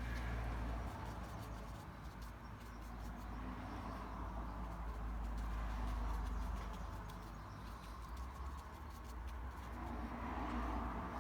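Paintbrush scrubbing and brushing over wet watercolour paper, a soft scratchy sound that swells and fades about three times, over a low steady hum.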